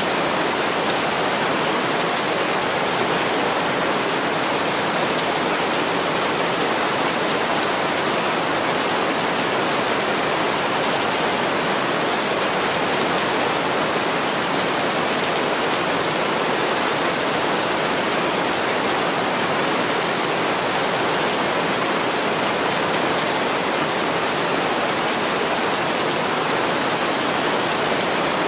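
Heavy rain pouring steadily against a window: a dense, even hiss with no let-up.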